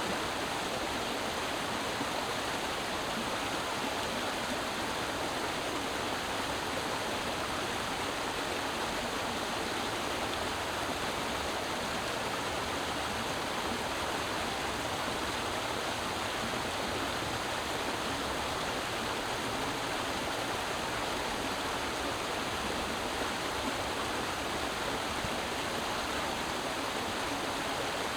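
Creek water rushing and babbling over rocks, a steady, even flow.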